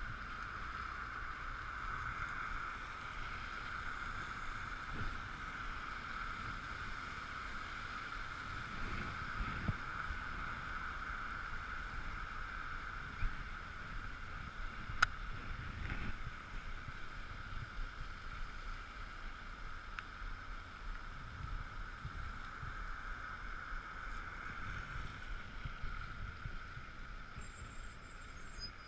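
Ekoway ML5000 electric scooter riding on a wet road: a steady high-pitched hum at one pitch over low wind rumble, with a couple of sharp clicks around the middle.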